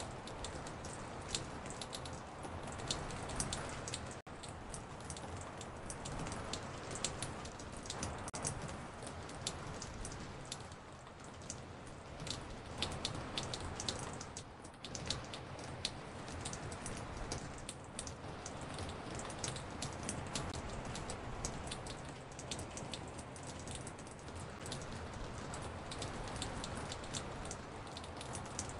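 Recorded raindrops on a porch, many separate drops ticking sharply over a steady hiss of rain. The drops are samples layered many times over and placed around the listener in 3D. The sound cuts out for an instant about four seconds in.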